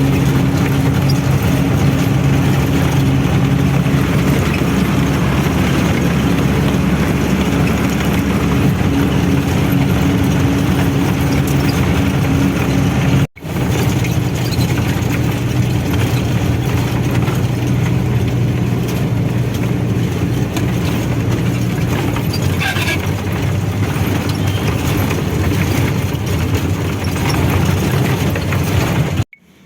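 Truck engine running steadily as the truck drives along, a continuous hum with road noise. The sound cuts out for an instant nearly halfway through and again near the end.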